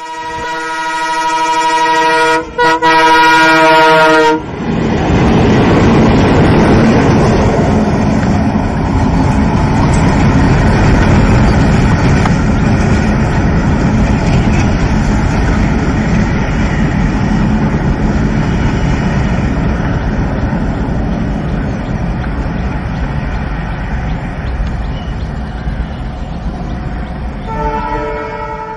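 A train horn sounds for about four seconds with a short break partway through, then a train runs past with a steady rumble for over twenty seconds, and the horn sounds again briefly near the end.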